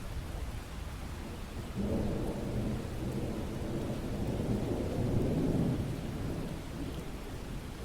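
Steady rain with a low rumble of thunder that comes in about two seconds in, swells to its loudest past the middle, and dies away near the end.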